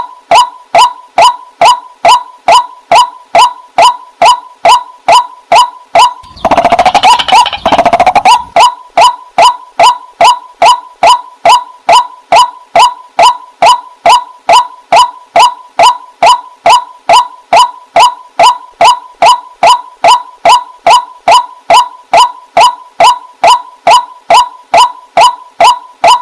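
Waterhen calling: one short note repeated steadily about twice a second. About six seconds in, a harsher call lasting about two seconds breaks in over the rhythm.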